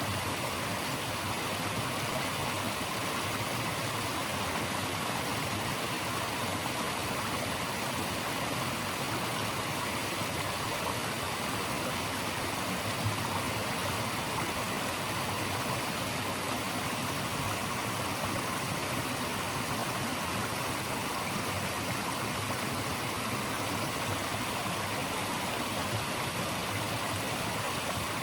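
Flowing stream water rushing steadily with an even, unbroken hiss.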